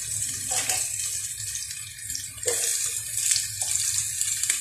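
Chopped onion and garlic sizzling in hot oil in a nonstick frying pan: a steady high hiss with a few short crackles, over a low hum.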